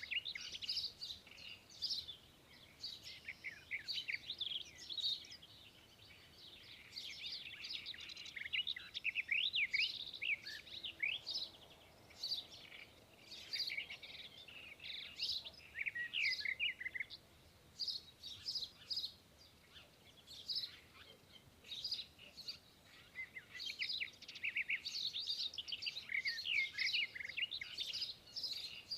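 Several birds chirping and twittering with short, quick high notes, busier in stretches with brief lulls between.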